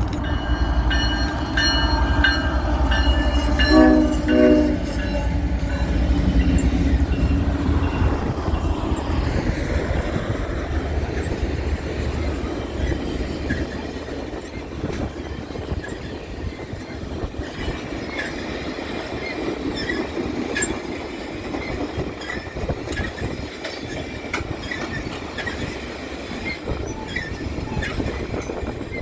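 Train horn sounding over a locomotive's low rumble, ending in two short blasts about four seconds in; the train then runs on with a steady rumble and wheels clicking over the rail joints.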